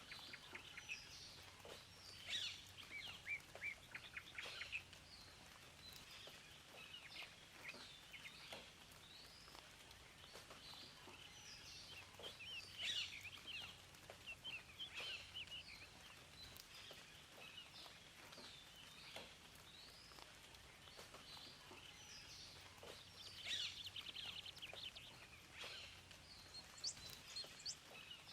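Several songbirds chirping and calling in short, overlapping calls and quick trills, faint overall with brief louder chirps.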